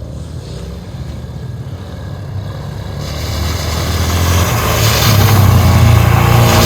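An engine running and growing steadily louder, as a motor vehicle approaches or accelerates.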